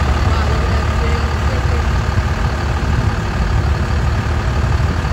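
A vehicle engine running steadily with a low rumble, with faint voices in the background.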